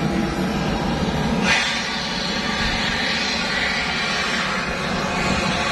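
L-410 Turbolet's Walter M601 turboprop engine running on the ground during an engine adjustment run: a steady turbine whine over a loud hiss. About a second and a half in the sound changes suddenly, turning brighter as the lower hum drops away.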